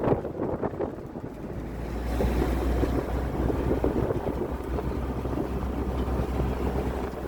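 Wind buffeting the microphone on a boat out at sea, over the boat's engine and the rush of water. A heavy low rumble comes in about two seconds in and cuts off suddenly near the end.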